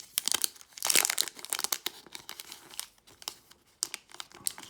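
Foil booster pack wrapper crinkling as it is handled and torn open, in a run of crisp crackles, loudest about a second in.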